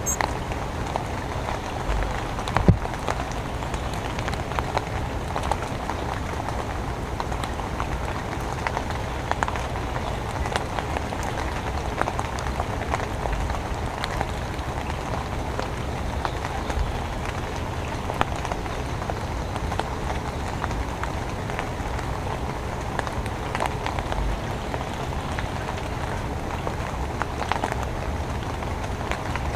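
Steady rain falling, with frequent separate drop hits ticking through the hiss.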